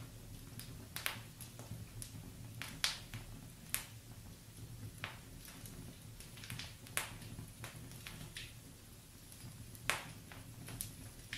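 Wood fire in a fireplace burning steadily, the logs crackling with irregular sharp pops and snaps over a soft low rumble of flame.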